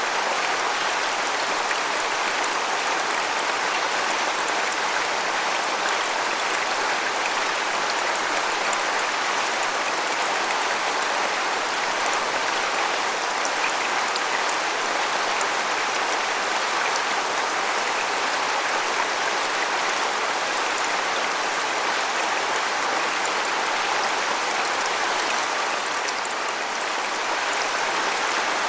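Waterfall: a steady, unbroken noise of falling water, level throughout.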